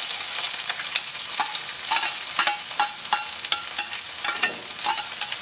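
Crushed shallots frying in hot coconut oil, sizzling steadily with frequent crackling pops as they hit the heated pan.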